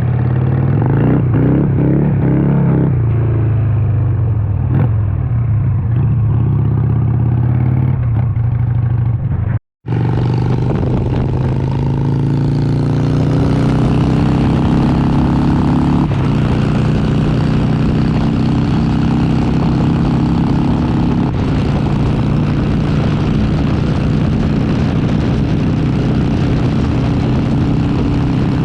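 Harley-Davidson Sportster 883's air-cooled V-twin engine running steadily under way, then, after a split-second break, pulling harder and climbing in pitch through gear changes.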